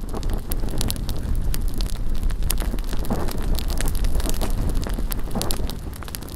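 Bonfire burning with a steady stream of sharp crackles and pops, under wind buffeting the microphone.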